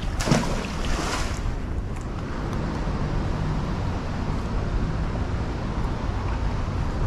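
Wind buffeting the microphone over the rush of creek water, with a short louder burst of noise in the first second or so.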